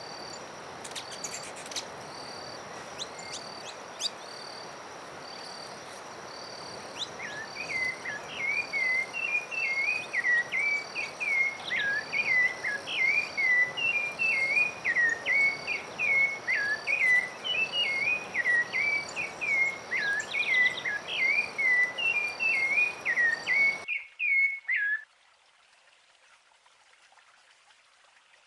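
A songbird singing a long, rapid, unbroken run of short slurred whistled notes. Under it are a steady hiss, a high insect buzz and a regular pulsing chirp. The background stops abruptly a few seconds before the end, and the song stops a moment later.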